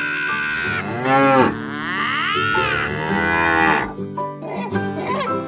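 Two long, drawn-out animal-like cries that rise and fall in pitch, the second the longer, over background music.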